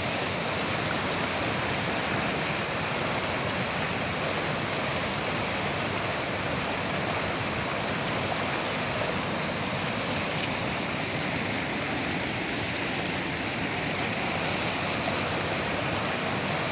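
Bogatha waterfall in heavy flood flow: a steady, unbroken rush of falling water.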